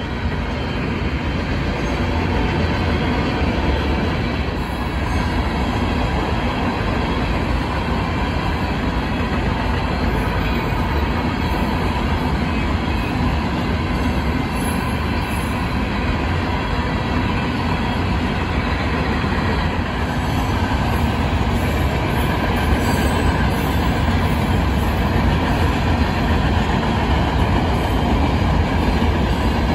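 Freight cars of a Union Pacific rock train rolling past at speed: a steady rumble of steel wheels on the rails that grows slightly louder toward the end.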